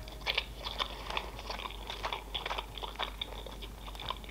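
Close-miked chewing of a mouthful of sushi: soft, wet, irregular mouth clicks and smacks, several a second.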